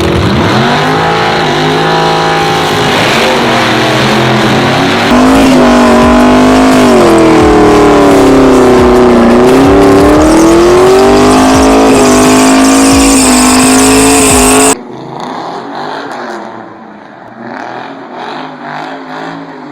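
Engine of a hot-rodded pickup truck revving, its pitch rising and falling over several seconds. It is loud, and about fifteen seconds in it cuts abruptly to a quieter stretch of engine sound.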